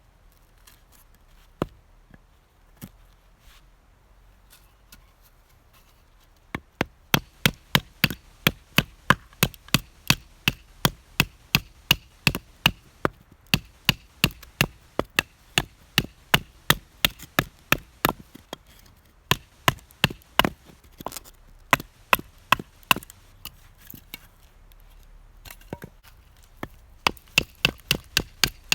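Firewood being split with a blade: a few scattered knocks, then about six seconds in a fast run of sharp wooden chopping strikes, roughly three a second, broken by short pauses.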